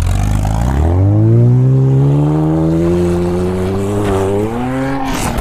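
Car engine at full throttle, accelerating hard: its pitch climbs steeply over the first two seconds, holds high while still edging up, rises once more and then breaks off just before the end.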